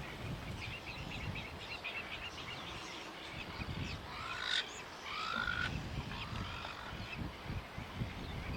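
Birds calling: a run of quick high chirps, then a few short arching calls about halfway through. Underneath, wind rumbles on the microphone.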